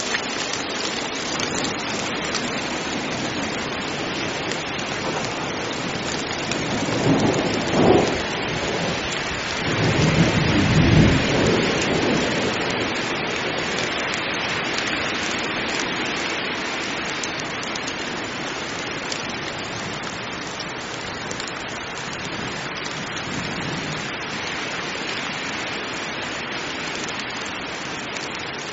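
Heavy rain falling steadily, with two deep rumbles of thunder, one about seven seconds in and a longer one about ten seconds in.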